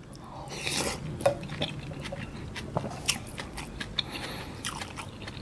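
Close-miked eating: a man takes in a spoonful of kimchi stew and rice, then chews it with many short mouth clicks and smacks.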